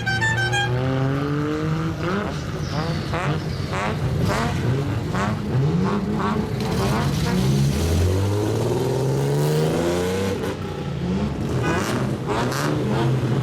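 Straight-piped (chokkan) exhausts of modified kaido-racer cars being revved in repeated throttle blips, the pitch rising and dropping again and again, with several engines overlapping.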